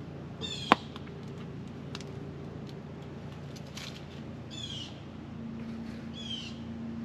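A bird outside gives three harsh calls, a couple of seconds apart, over a low steady background hum. A single sharp click sounds just after the first call.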